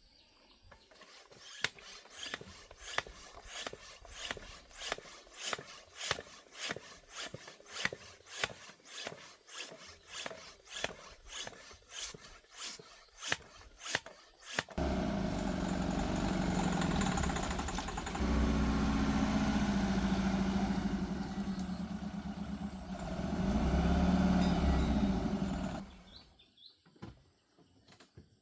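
About fourteen seconds of even, sharp strokes, roughly two a second. Then a car engine runs loudly for about eleven seconds, revving up twice, and is switched off.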